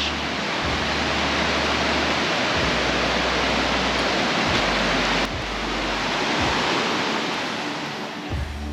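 Fast-flowing river rushing: a steady, dense wash of water noise, dropping slightly in level suddenly about five seconds in.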